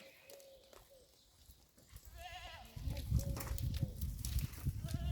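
Goat bleating: one short wavering bleat about two seconds in, with fainter calls around it. From about three seconds a loud low rumbling noise with scattered knocks takes over.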